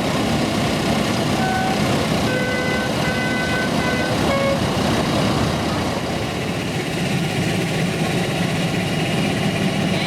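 Tractor engines running, with a horn sounding a short run of notes of different pitch between about one and a half and four and a half seconds in.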